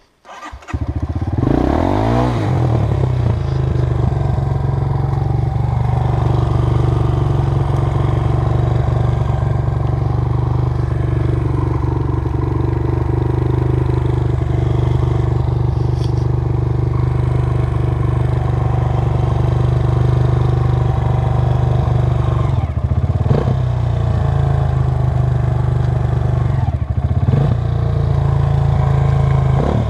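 Honda CRF230 dirt bike's single-cylinder four-stroke engine comes in sharply about half a second in, revs up and down, then runs steadily and loudly under throttle. The throttle briefly drops off and picks up again twice in the last third.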